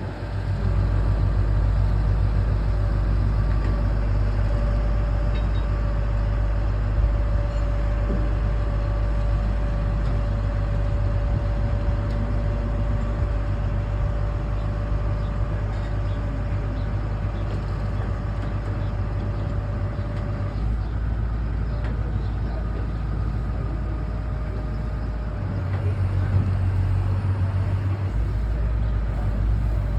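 A heavy engine running steadily at a low, even speed, with a deep rumble and a thin steady whine over it; the low note shifts briefly about 25 seconds in.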